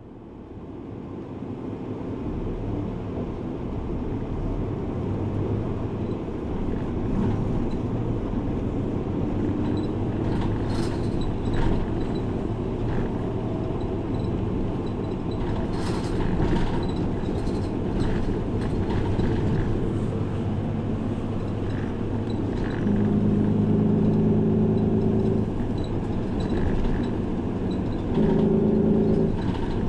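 City bus engine and road noise heard from inside the cabin, building up over the first several seconds as the bus gets under way, then running steadily with scattered rattles and knocks. A humming tone comes in twice near the end.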